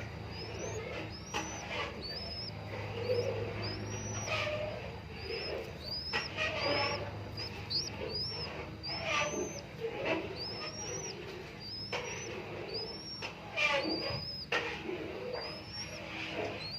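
Birds calling: a steady series of short, high, rising chirps, about one or two a second, over lower cooing calls typical of a zebra dove, with a few sharp knocks.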